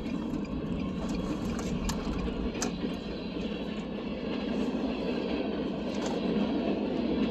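Train cars rolling past: a steady rumble with a few sharp clicks.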